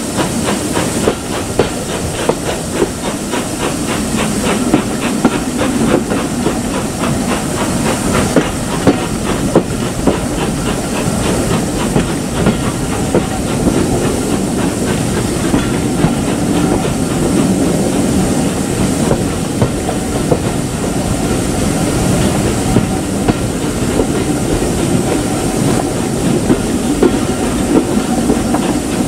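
Steam train running, its wheels clicking and knocking over the rail joints with a steady hiss of steam throughout.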